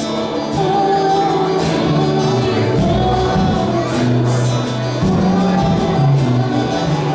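A church worship team playing live worship music with singing, over a bass line that moves every second or so and a steady percussion beat.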